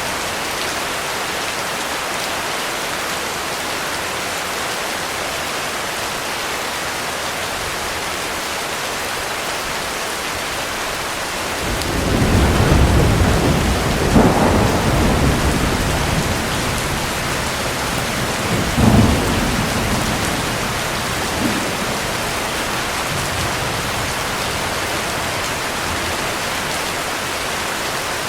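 Steady heavy rain, with a roll of thunder about halfway through: a deep rumble swells up, breaks into two sharp cracks a few seconds apart, then fades back into the rain.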